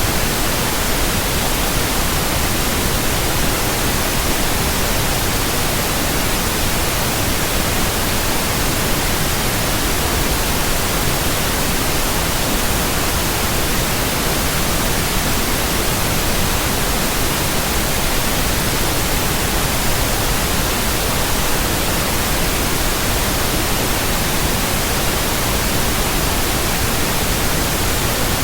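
Steady white noise: an even, unbroken hiss across all pitches, with no change in level.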